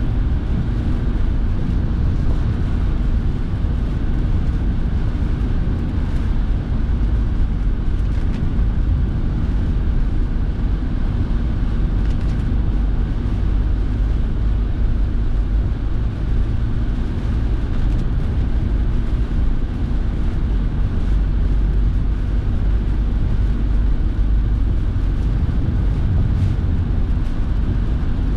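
Steady cabin noise of a car being driven: a low engine and road rumble, with the heater fan blowing.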